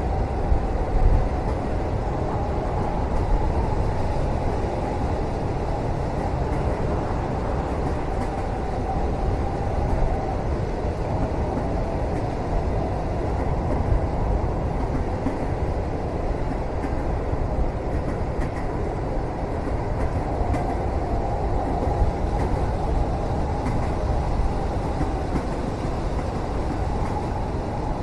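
A train running, heard from inside a sleeper cabin: a steady low rumble with a faint hum that comes and goes, and a few light knocks now and then.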